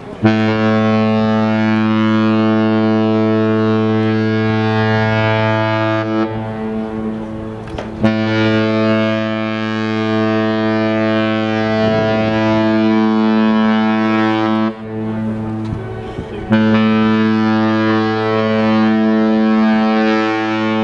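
Cruise ship Renaissance's horn sounding three long, steady, deep blasts with short gaps between them, the last still sounding at the end: a departure signal as the ship leaves port.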